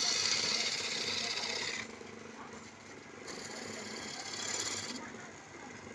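Wood lathe running, with a turning chisel cutting the spinning wood: a loud hissing cut for the first two seconds, then a second, lighter cut from about three seconds in, over the steady hum of the machine.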